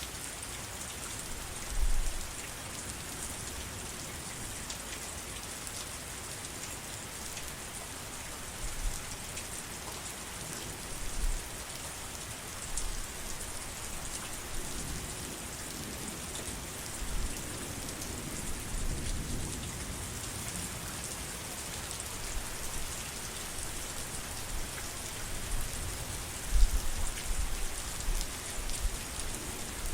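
Steady heavy rain hissing and pattering on surfaces, with occasional low rumbles, the strongest a few seconds before the end.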